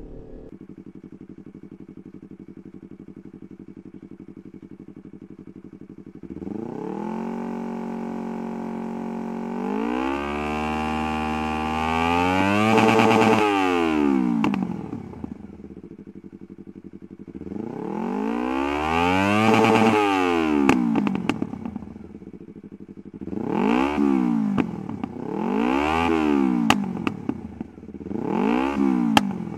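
Twin-cylinder motorcycle engine running through a GPR Carbon aftermarket racing silencer, revved at a standstill. It idles, steps up to a held higher speed, and is then revved up hard twice, each time falling back to idle. Near the end come three quick blips of the throttle, with a few sharp cracks as the revs drop.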